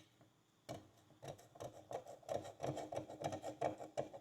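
Metal pick scraping and clicking against a rusty horseshoe as packed dirt is dug out of it: after a brief pause, a run of quick, irregular scratches and ticks.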